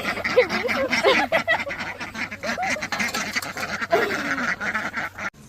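A group of farm ducks quacking, with many short calls overlapping, over a steady high-pitched background hiss. The sound cuts off abruptly near the end.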